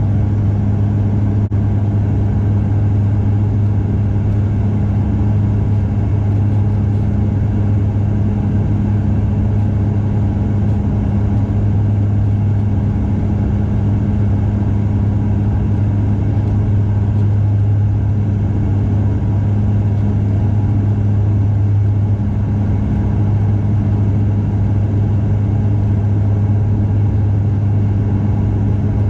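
Cabin sound of a Bombardier DHC8-Q400 turboprop: a steady, loud drone of the propellers and engines, with a strong low hum and its octave above over a rush of airflow noise.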